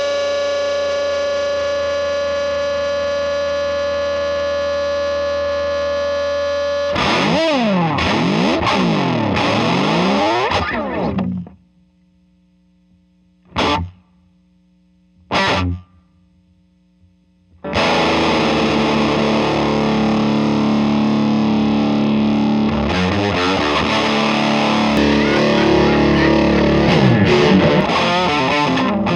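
Overdriven electric guitar through a Songbird Redtail amplifier: a chord held ringing for about seven seconds, then notes sweeping up and down in pitch. The playing stops for several seconds, leaving a faint amp hum broken by two short stabbed notes, then picks up again with busy chords to the end.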